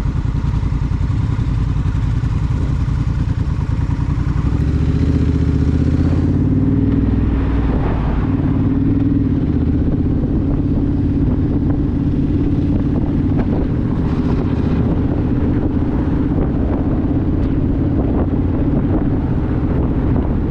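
Honda Rebel motorcycle's parallel-twin engine running steadily under way, with wind noise over it. About four to six seconds in, the engine pulls harder and its note settles a little higher.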